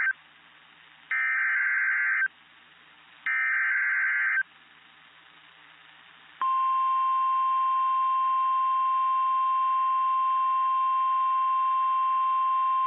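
NOAA Weather Radio alert signals announcing a severe thunderstorm warning. First come two more bursts of the digital SAME header, each about a second long, with radio hiss between them. About six and a half seconds in, the steady 1050 Hz warning alert tone starts and holds.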